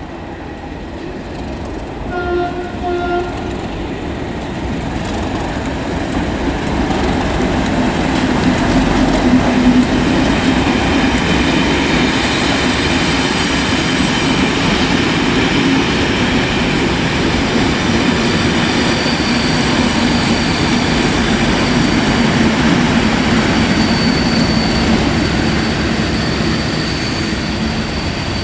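A short horn blast about two seconds in, then a train running past, its rumble and clatter building over several seconds and staying loud before easing a little near the end.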